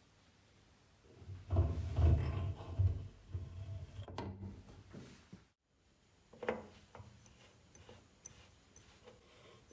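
Low thumps and handling knocks, as of objects being moved and set down, followed a few seconds later by a single sharp knock and a few faint clicks.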